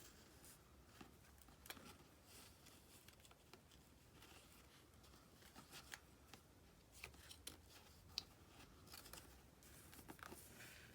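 Faint rustling and light taps of paper pieces being handled and arranged, scattered through near silence.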